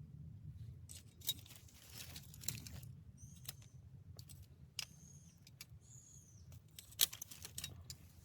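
A newly lit bonfire of kindling crackling, with irregular sharp pops over a low steady rumble; the loudest pop comes about 7 seconds in. A few short high whistling tones are heard too.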